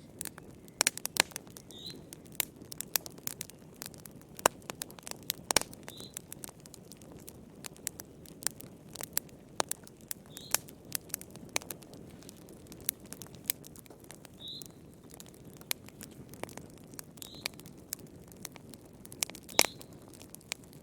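Wood fire in a fireplace crackling: irregular sharp pops and snaps over a steady low hiss of burning. A faint short high chirp recurs every few seconds.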